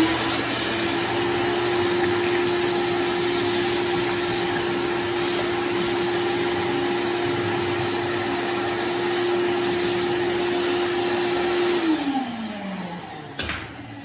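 Vacuum cleaner motor running with a steady whine and airflow hiss, switched off about twelve seconds in and winding down.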